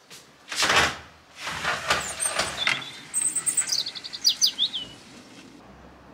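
A small bird chirps a quick run of short, high notes and falling calls. Before the chirps come two loud rushing noises.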